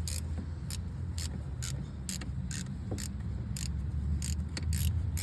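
Light metallic clinks and ticks of tools and steel parts being handled on a tractor's hydraulic steering ram, irregular, about two a second, over a steady low engine-like hum.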